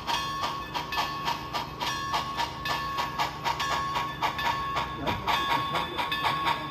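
HO scale model train running, with a steady rhythmic clicking of about five beats a second and a faint hiss.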